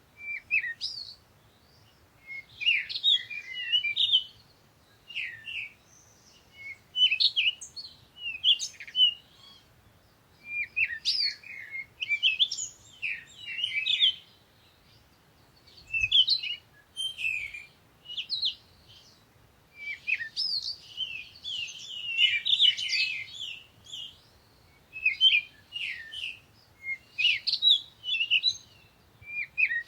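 Songbirds chirping and singing: quick high chirps and short sweeping notes in bursts every second or two, with brief pauses between phrases.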